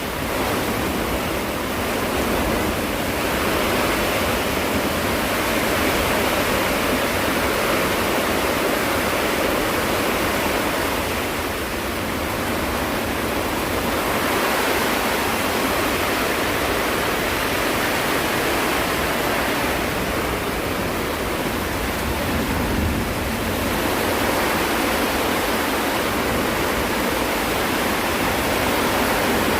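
Steady, loud rush of a heavy rainstorm with strong wind, swelling and easing every several seconds.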